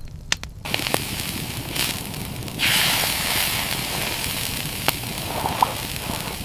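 Campfire crackling with scattered sharp pops; its rushing hiss sets in suddenly and grows louder about two and a half seconds in.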